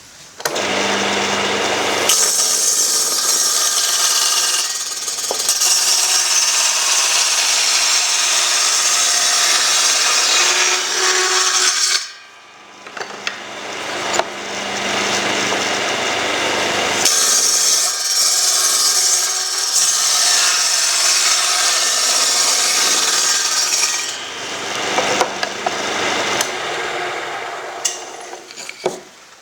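A power tool runs against the workpiece in two long passes, with a short stop about twelve seconds in.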